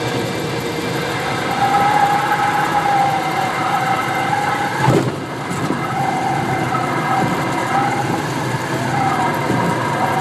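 Cessna 172RG's stall warning horn sounding a steady, slightly wavering tone through the landing flare, over the cockpit hum of the idling engine and airflow. About halfway through there is a single thump as the main wheels touch down, and the horn keeps sounding on and off afterwards.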